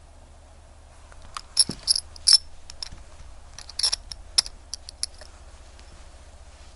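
Small, sharp metallic clicks and taps of watch-repair work on a quartz wristwatch: about a dozen irregular ticks packed between about one and a half and five seconds in, over a low steady hum.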